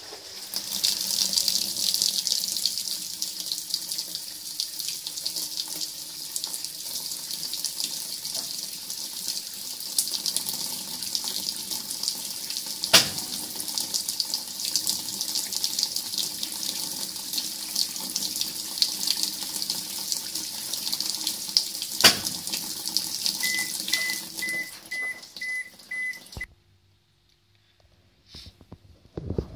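Water running steadily in a Toshiba AW-A820MM top-load washing machine, with two sharp clicks along the way. Near the end the machine gives a row of short, evenly spaced beeps and the water sound stops abruptly.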